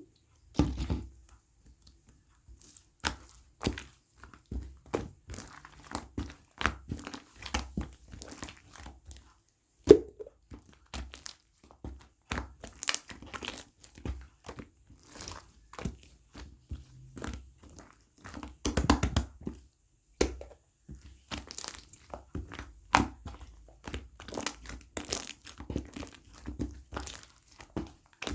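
Irregular crinkling and crackling handling sounds with scattered light taps, and one sharp knock about ten seconds in.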